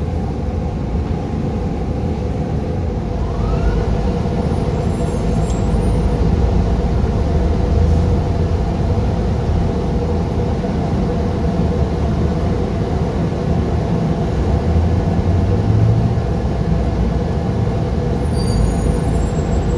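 Steady low engine and road rumble of a moving city bus, heard from inside.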